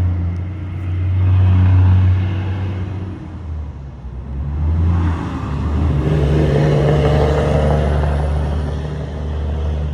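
A super ridiculously loud road vehicle driving by: a deep engine rumble that swells about a second in, dips, then swells again with a rushing noise from about six seconds in.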